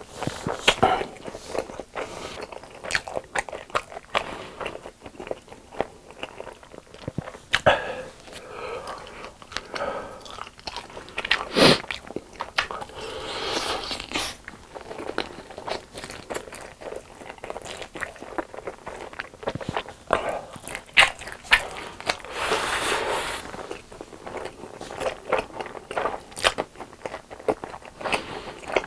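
Close-miked eating: crunchy bites and chewing in a steady run of sharp crackles, with one especially loud crunch about twelve seconds in.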